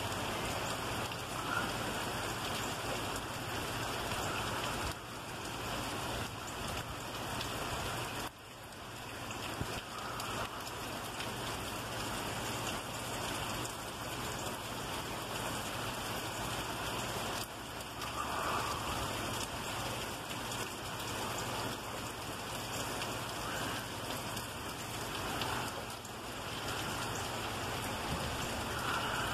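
Heavy rain pouring steadily from Hurricane Ida, a dense even hiss of rain with some wind.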